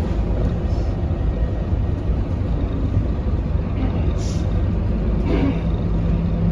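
Scania K230UB bus's diesel engine running, a steady low rumble, with a low hum growing stronger in the second half.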